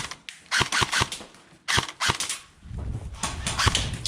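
Airsoft guns firing in several quick bursts of sharp snapping shots, with a low rumble under the second half.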